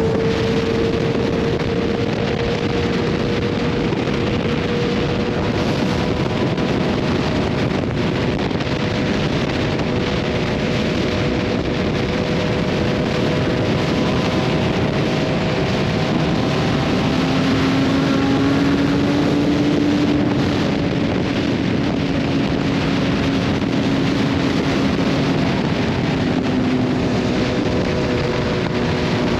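Motorcycle at cruising speed: wind rushes over the microphone while the BMW S1000RR's inline-four engine, on an SC Project titanium exhaust, drones at a steady pitch. A little past halfway the engine settles to a lower, steady pitch.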